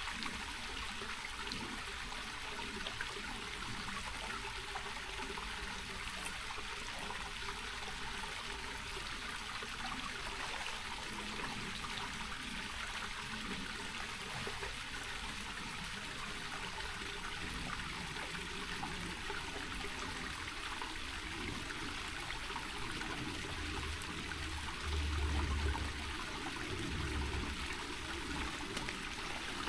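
Small rocky mountain creek running steadily, water trickling over rocks at low flow. A brief low rumble comes about 25 seconds in.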